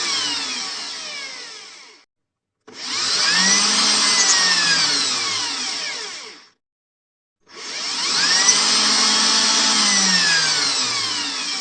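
Electric drill run in repeated bursts: it winds down, then twice spins up, runs for about four seconds and winds down again, with short gaps of silence between.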